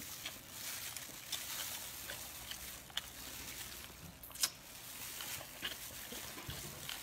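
Eating sounds from biting and chewing a braised pig's trotter: small wet clicks and tearing noises scattered over a steady hiss, the sharpest click about four and a half seconds in.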